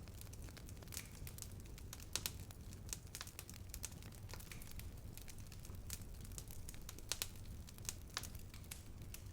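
Wood fire burning, with irregular sharp crackles and pops over a low steady rumble; the loudest pops come about two seconds in and again about seven seconds in.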